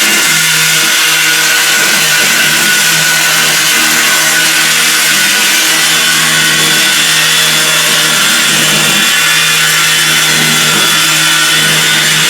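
Electric power sander running steadily under load, sanding the rough edges off a glued timber bridge, its motor hum under a loud, dense hiss of abrasive on wood.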